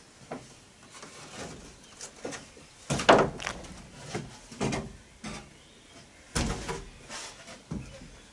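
Wooden floor boards being handled and laid down: irregular knocks and scrapes of planks, the loudest about three seconds in and another just past six seconds.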